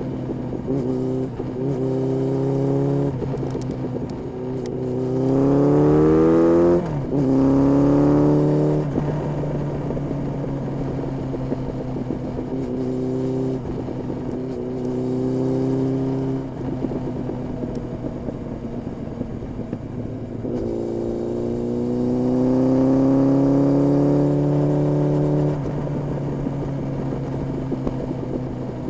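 Honda CB1300S four-cylinder engine through an Ixrace aftermarket exhaust while riding, running steadily with bursts of acceleration. About five seconds in the pitch rises, drops briefly at a gear change, and rises again into the next gear, then settles back to a steady run; about twenty seconds in there is a longer, louder rise before it eases off again.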